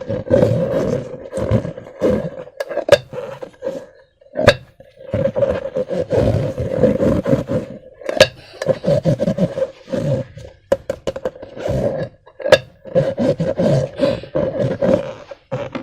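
Slime being squeezed and worked in transparent rubber balloons. It makes a repeated squeaky groaning of rubber with crackling clicks and pops, broken by short pauses about four seconds in and near twelve seconds.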